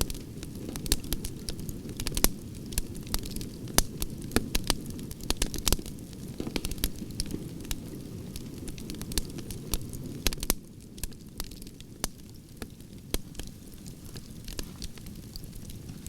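Firewood fire crackling: frequent sharp pops and snaps of burning logs over the low steady rush of the flames, which eases a little about two-thirds of the way through.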